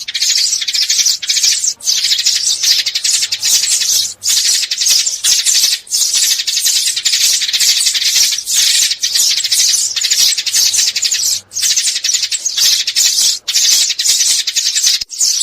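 Sparrows chattering continuously: a loud, dense run of fast, high twittering notes, broken by short pauses every second or two.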